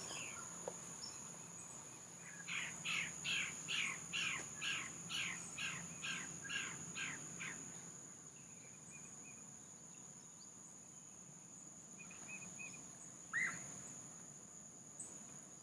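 A bird gives a run of about a dozen quick, evenly spaced calls, a little over two a second, then a single short call near the end, over a steady high insect drone.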